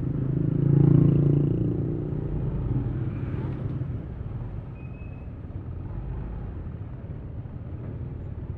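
Yamaha Aerox V3 scooter's 155 cc single-cylinder engine running under way, with road and wind noise. About a second in, an engine drone swells briefly louder, then settles back to a steady lower run.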